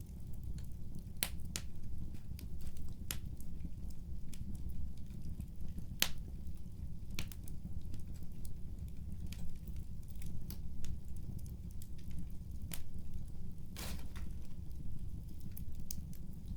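Fireplace crackling: a steady low rumble of flames with irregular sharp pops and snaps, two louder cracks about six seconds in and near the end.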